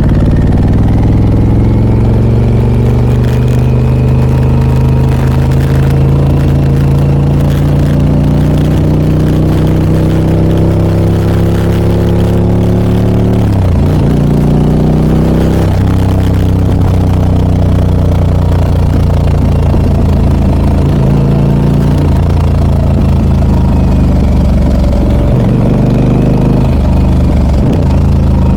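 Harley-Davidson Pan America 1250 Special's Revolution Max V-twin, through a Scorpion aftermarket exhaust, running under way. The engine note climbs steadily, drops sharply twice about half-way through, then runs at a steadier pitch with a few small dips.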